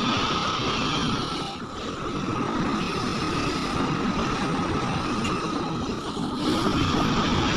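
Heavy diesel engine of a large mining excavator running steadily under work, its sound dipping briefly twice.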